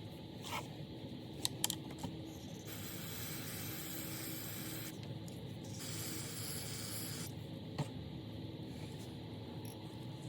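Two bursts of pressurised spray hissing, each about two seconds long with a short gap between them, as the carburetor is sprayed during cleaning. A few small clicks come just before and just after.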